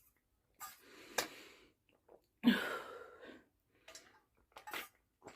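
A person breathing: a few short, breathy exhales, the loudest about two and a half seconds in.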